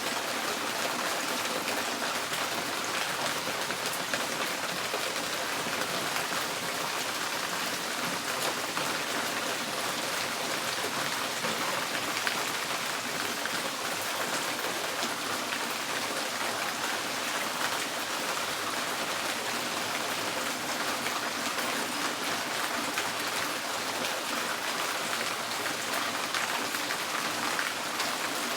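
Steady rain falling on a tin porch roof, a dense, even patter of drops that keeps the same level throughout.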